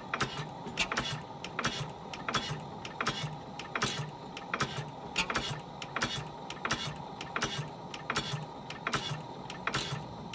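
Early Blackstone 1.5 hp constant-flame oil engine running slowly and steadily: a sharp mechanical click about every three-quarters of a second, each followed by a lighter click, over a steady hum.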